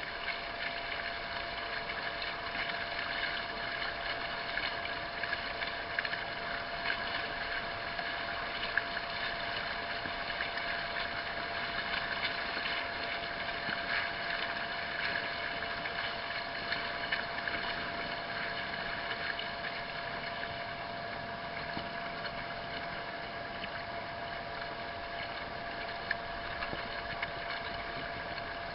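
A motor running steadily, a hum of several fixed tones over an even rushing noise, unchanged throughout.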